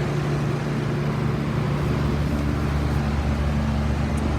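Carrier Odyssey 10-ton dual-compressor air-conditioning condensing unit running steadily: a low, even hum under a broad rush of air.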